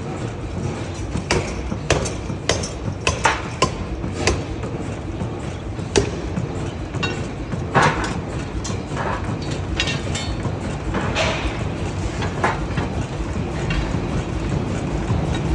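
Forging shop noise: a steady low machine rumble under irregular sharp metal clanks and knocks, several a second at times, some ringing briefly. The rumble grows a little louder near the end.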